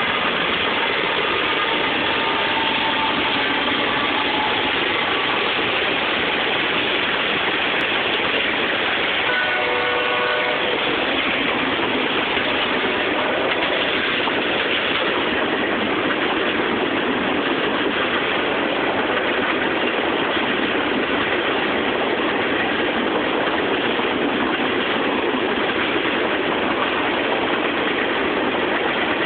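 Fast CSX mixed freight train passing, a steady loud rush of wheel and railcar noise that keeps up throughout. A brief pitched tone sounds about ten seconds in.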